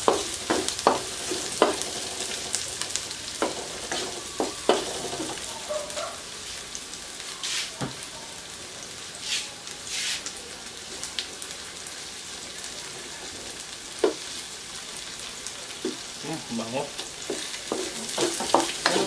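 Sliced onions and garlic sizzling in oil in a nonstick wok, with a wooden spatula scraping and knocking against the pan as they are stirred. The knocks come thickest in the first five seconds and again near the end.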